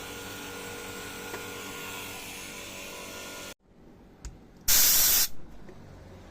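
Steady hiss of blowing air or gas with a faint hum and whine, which stops abruptly about three and a half seconds in. A second later comes a short, loud burst of hiss lasting about half a second.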